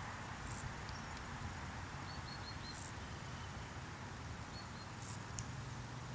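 Faint, steady low rumble of a distant freight train of hopper wagons, with a low hum that grows steadier near the end. Short high chirps from birds break in a few times.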